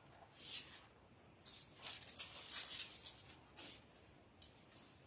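Paper rustling in a series of short, faint bursts, like the thin pages of a Bible being turned to find a passage.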